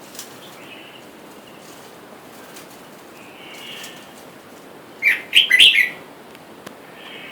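Red-whiskered bulbuls calling, with faint scattered calls and then a loud burst of sharp chattering calls about five seconds in.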